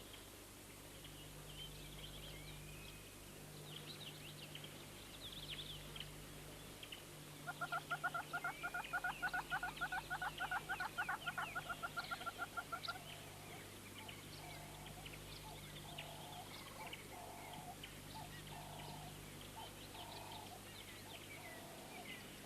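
Wild birds calling, with scattered high chirps and trills throughout. About seven seconds in, one bird gives a loud, fast run of repeated notes lasting about five seconds, followed by lower calls repeated about once a second.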